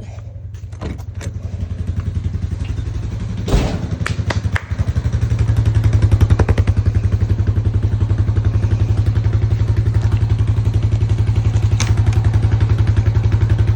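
Honda Foreman ATV's single-cylinder engine running with an even, quick pulsing beat. A few sharp knocks come about three and a half seconds in, then the engine gets louder and stays louder.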